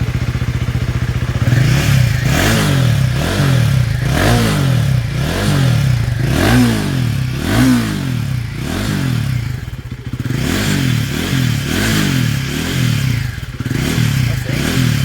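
Royal Enfield Guerrilla 450's single-cylinder engine through a Powerage slip-on end can with the DB killer removed, idling and then blipped over and over, the revs rising and falling about once a second, with a brief drop back to idle about two-thirds of the way through.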